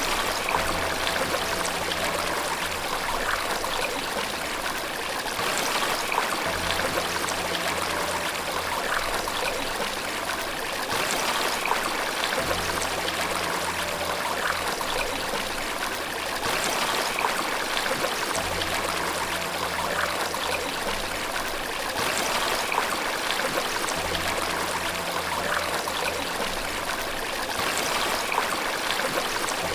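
Steady rushing and trickling of running water, like a stream or small waterfall. Underneath it, soft low sustained notes change about every six seconds.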